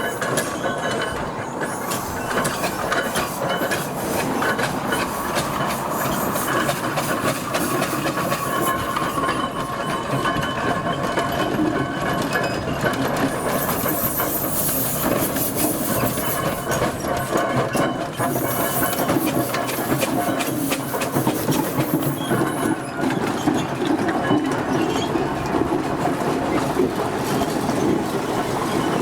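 Steam traction engine running along the road, its motion and gearing making a steady fast clatter. A brief hiss rises around the middle.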